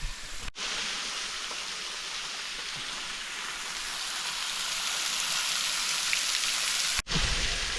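Steady hiss of a waterfall's water falling and splashing close by, sounding much like heavy rain, growing a little louder toward the end. It starts and stops abruptly, shortly after the start and about a second before the end.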